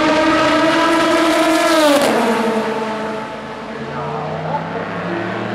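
Race car passing at speed, its engine note high and steady, then dropping sharply in pitch about two seconds in as it goes by. After that, a quieter, lower engine sound from another car on the circuit.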